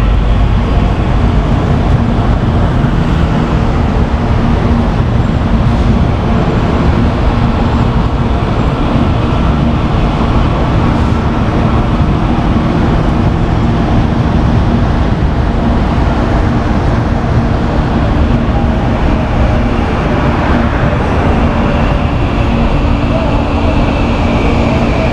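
Electric commuter train running: a loud, steady rumble with faint steady tones and a faint higher whine in the last few seconds.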